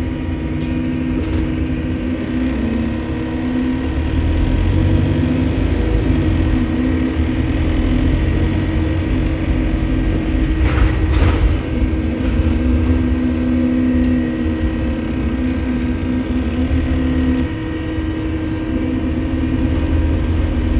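A bus heard from on board while under way: a steady engine drone with a faint high whistle that rises and falls, on a bus said to have a leaking turbo. About eleven seconds in there is a short hiss of air, typical of the air brakes.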